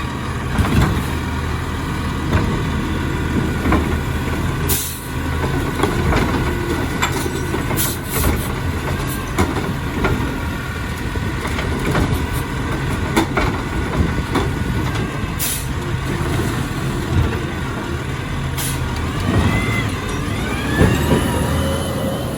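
Peterbilt 520 garbage truck with a Labrie Helping Hand automated side loader running steadily, with repeated knocks and clatters throughout and a few rising whines near the end.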